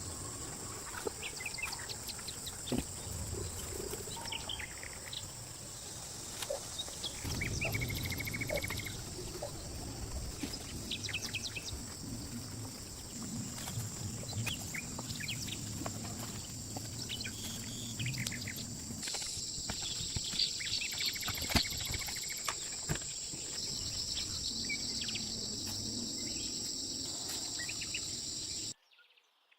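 Outdoor ambience: a steady high-pitched insect drone, like crickets or cicadas, with birds chirping over it. It cuts out abruptly shortly before the end.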